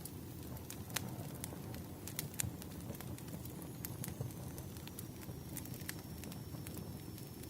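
Wood fire crackling: a steady low rush of flames with irregular sharp pops and snaps, the loudest about a second in and again near two and a half seconds.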